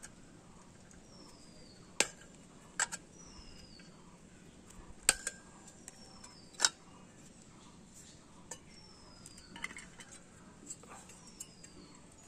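Sharp metallic clinks and taps from parts of a microwave oven magnetron being handled during disassembly: four loud ones in the first seven seconds, softer ones after. A faint high chirp falling in pitch repeats about every two seconds.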